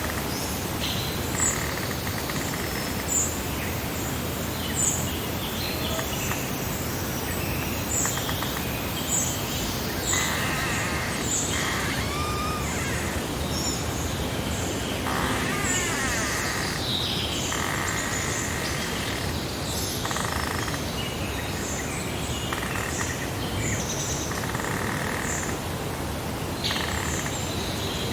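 Summer meadow ambience: several birds chirping and calling, with short high chirps every second or two and brief song phrases, over a steady hiss of breeze.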